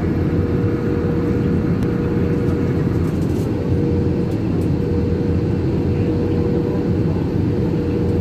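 Passenger airliner noise: a steady low engine and air rumble with a constant hum.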